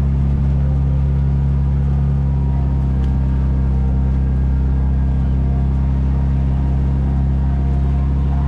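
Engine of a slow-moving Main Street replica cab running steadily, an even low drone with no change in pitch.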